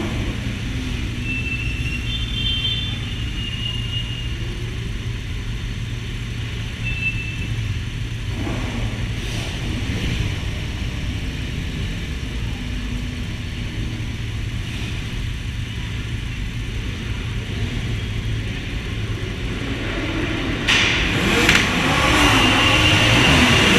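A group of motorcycles running with a steady low rumble. Near the end several engines are revved hard together and it gets louder, with pitches rising and falling.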